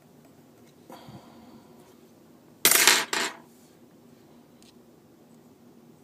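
A small metal object clattering onto a hard work surface: a faint clink about a second in, then two loud clattering hits close together near the middle.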